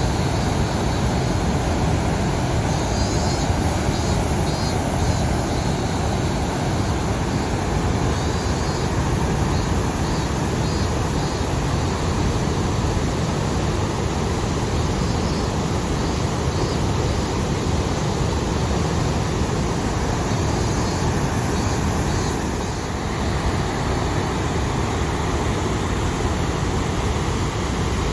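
Water released from the Maruyama Dam spillway gates rushing and crashing below in a heavy, steady roar of noise, strongest at the low end, dipping slightly about 22 seconds in.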